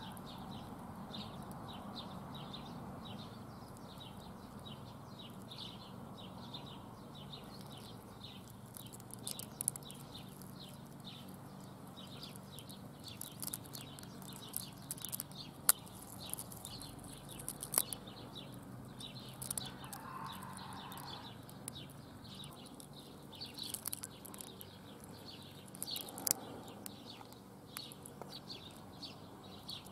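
Birds chirping rapidly over and over, with a lower call about twenty seconds in and a few sharp clicks scattered through.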